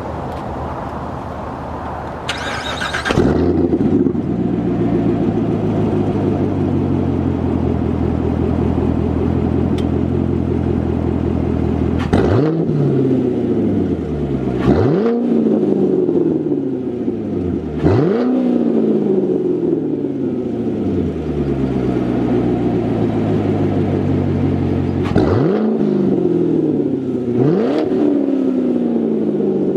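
2018 C7 Corvette Stingray's 6.2-litre V8 through straight pipes with the mufflers deleted, idling steadily, then blipped several times: each rev shoots up sharply and falls slowly back to idle.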